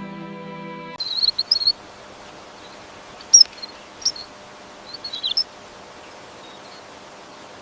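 Soft background music cuts off about a second in, giving way to open-air ambience. Birds chirp over it in a few short, high bursts.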